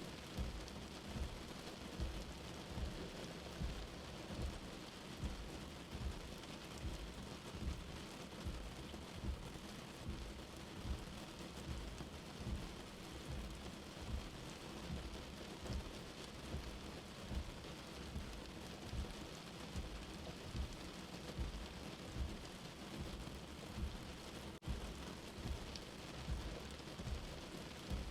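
Steady rain falling at night, with heavy drops thudding close by about once a second and a steady high insect drone under the patter.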